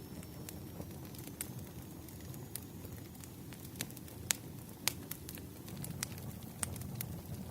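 Bonfire crackling: a steady low rumble of burning with sharp, irregular pops and snaps throughout, the loudest two about four and five seconds in.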